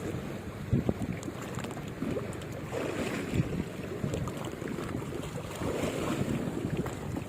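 Wind buffeting the microphone in uneven gusts, over the wash of sea water.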